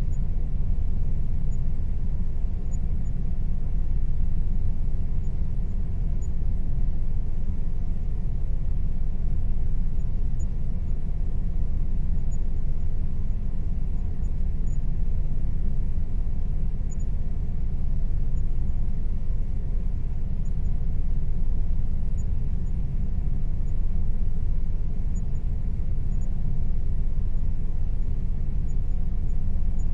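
Air conditioner running steadily: an even low rumble with a faint steady hum above it, unchanging throughout.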